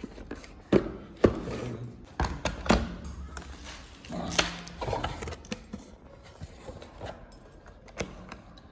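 Handling noise: a string of knocks and clicks, about half a dozen, with rustling in between, fading toward the end.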